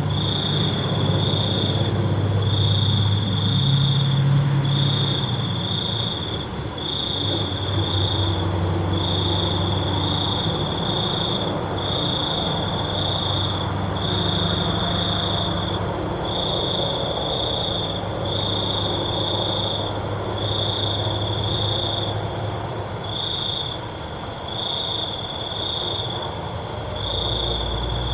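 Crickets calling: a loud, high trill in bursts of about a second with short gaps between, and fainter insects chirping higher still, over a low rumble.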